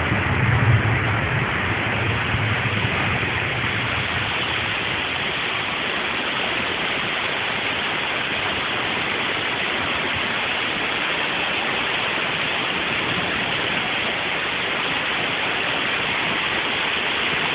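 Heavy rain pouring down in a steady hiss, with a low rumble in the first few seconds.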